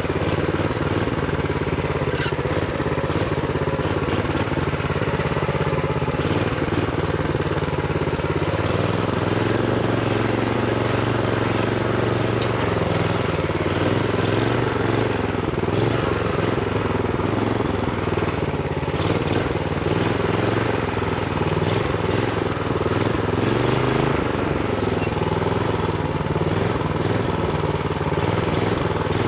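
Honda GX390 single-cylinder four-stroke engine on a minibike running under way, its pitch shifting up and down a little with the throttle, with a few faint short squeaks over it.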